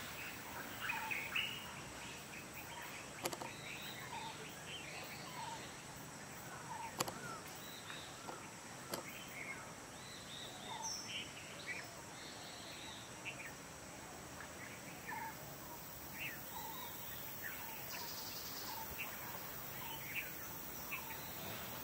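Many short bird chirps and calls over a steady background hiss, with sharp clicks about three seconds in and again about seven seconds in.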